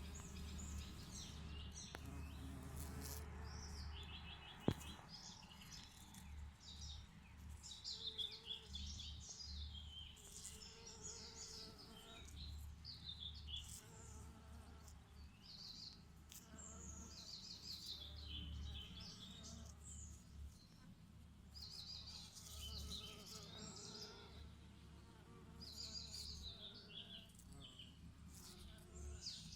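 Bees buzzing steadily with a chorus of small songbirds chirping and trilling. A single sharp click about five seconds in.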